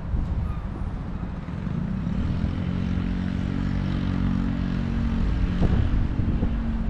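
Wind rumbling on the microphone, with a steady engine hum that comes in about two seconds in and holds.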